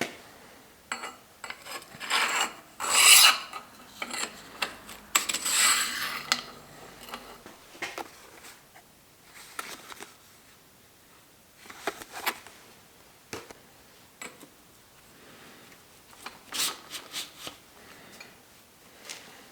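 Rasping, rubbing strokes on bicycle parts in irregular bursts, loudest about two and five seconds in, with scattered sharp clicks and light knocks of parts being handled.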